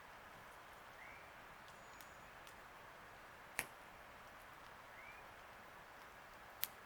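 Campfire wood popping twice: two sharp cracks about three seconds apart over a faint steady hiss. Short rising chirps sound now and then, higher up.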